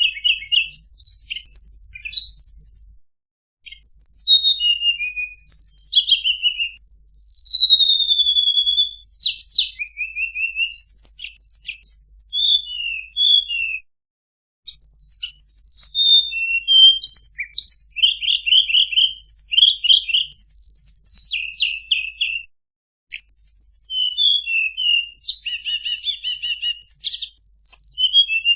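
Tledekan bird singing: a rapid, varied string of high whistles, chirps and short trills, in long phrases broken by brief pauses about 3, 14 and 22 seconds in.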